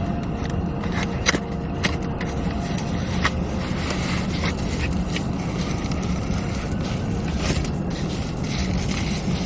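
Plastic packaging of a license plate frame being opened and handled: scattered clicks and scrapes over a steady low rumble.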